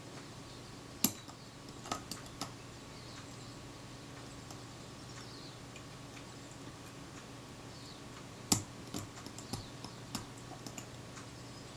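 Small hand tools clicking and tapping on the metal parts of a camera's film-advance mechanism while a tiny return spring is worked onto a ratchet pawl: two sharp clicks, about a second in and again about eight and a half seconds in, each followed by a few lighter ticks, over a steady faint hum.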